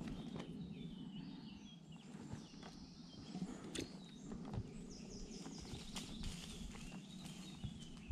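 Small birds singing faintly, short high chirping phrases, with a few light knocks and clicks.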